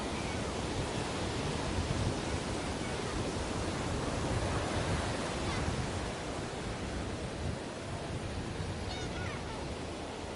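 Ocean surf washing steadily onto a beach, a continuous rushing wash that swells a little in the first half.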